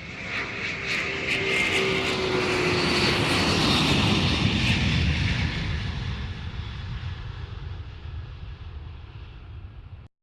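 Airplane flying past overhead: its engine noise swells to loudest about three to four seconds in, falling slightly in pitch as it passes, then fades away.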